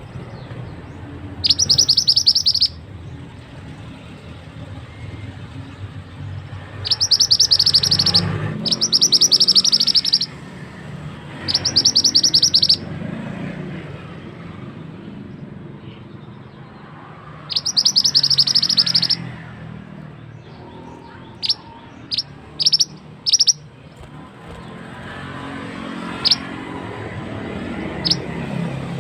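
Mantenan bird singing: loud, rapid high trills of about a second each, five in all, then a series of short, sharp single notes in the last third.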